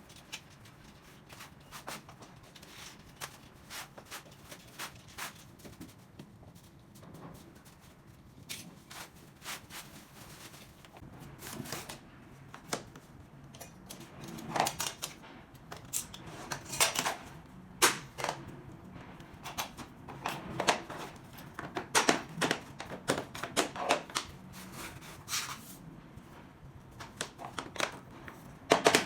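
Irregular sharp taps and clicks of SPC stone-plastic flooring planks being handled and knocked together as they are fitted. They are sparse and faint at first, then louder and more frequent from about twelve seconds in.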